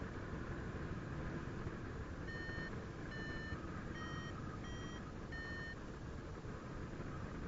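Paragliding variometer beeping in flight: five short beeps about 0.7 s apart in the middle, rising a little in pitch then dropping back, the vario's signal of climbing air. Steady wind noise on the microphone lies underneath.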